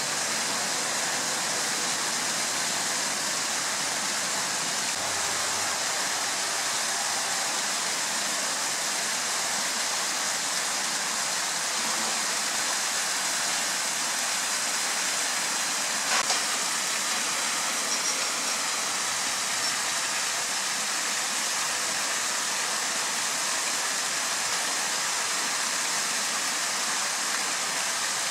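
Steady rush of flowing stream water, with a single sharp click about midway through.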